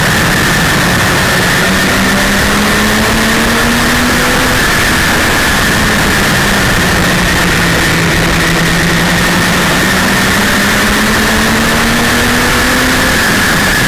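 A 1932 Ford super modified's 300 cubic inch straight-six racing engine running hard. Its pitch climbs from about two seconds in, drops back near the middle, then climbs again toward the end, under a loud, constant rush of wind and road noise.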